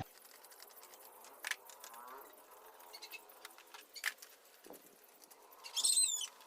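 Faint, quiet background with a few scattered sharp clicks, and a brief high chirp with quick falling sweeps near the end.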